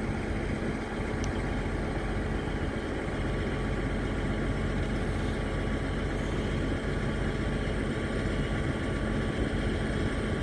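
Train at a station running steadily: a constant low hum and rumble.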